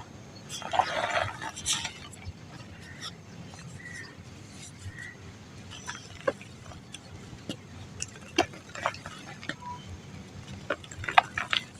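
Dry mud crumbling: a crunching, grainy burst about a second in, then scattered small crackles and ticks, with a quicker cluster of crackles near the end.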